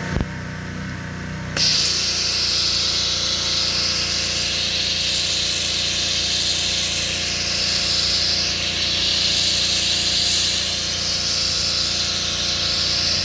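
Pressure washer running with a steady hum; about a second and a half in, a foam cannon on its wand starts spraying foam with a loud, steady hiss that continues.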